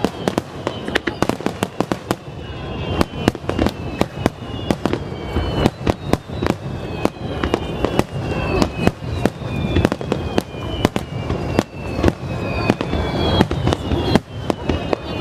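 Aerial fireworks bursting in quick, irregular succession, a dense string of bangs with many short falling whistles between them.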